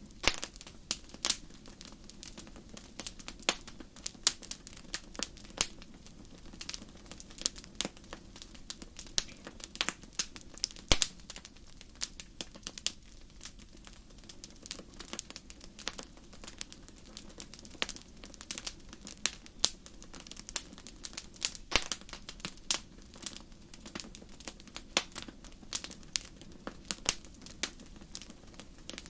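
Fire crackling: many irregular sharp snaps and pops, some louder than others, over a faint steady low hush.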